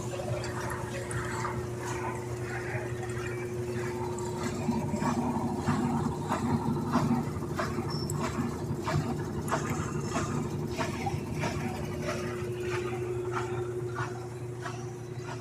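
Samsung 10.5 kg Wobble washing machine running with a steady hum, overlaid by a fast, irregular series of small clicks, knocks and rattles with water sounds.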